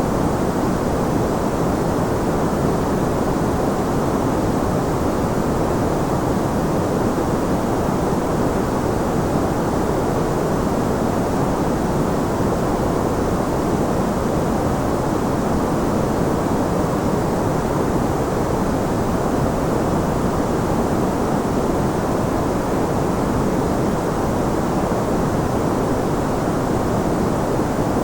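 Steady electronic white noise for sleep, an even, unchanging hiss. It is heavier in the lows and mids than in the highs, so it sounds deep and rushing rather than bright.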